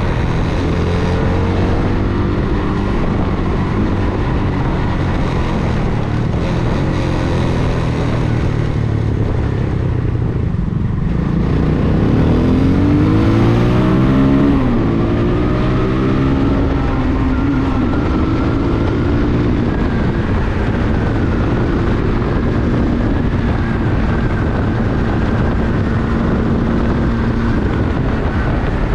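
Vento Alpina 300 motorcycle engine running under way. About ten seconds in the throttle eases briefly, then the engine pulls up in pitch and gets louder for a few seconds before settling into steady cruising.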